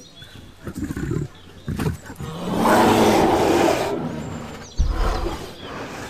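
A large animal roaring: a couple of short low calls, then one long, loud roar from about two and a half seconds in that trails off, followed by a low thump.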